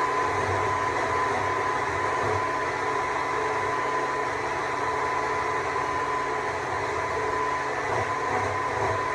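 Stihl MSA 200 C battery chainsaw running steadily while cutting wood, its electric motor and chain giving a steady high whine over a rough rushing noise.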